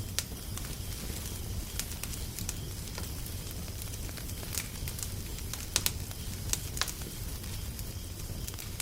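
Wood fire crackling: irregular sharp pops and snaps, a few louder ones just past the middle, over a steady low rumble.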